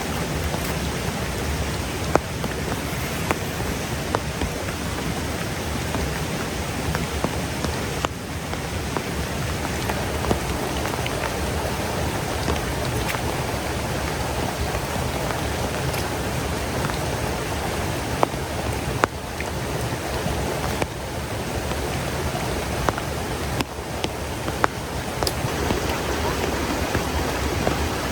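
Steady heavy rain falling, with scattered sharp drop impacts standing out now and then.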